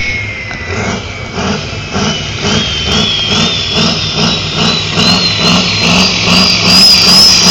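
Modified pulling tractor's engine running with a high whine over a regular low pulsing. The whine dips in pitch at first, then from about two and a half seconds in climbs steadily higher, and the engine grows louder toward the end.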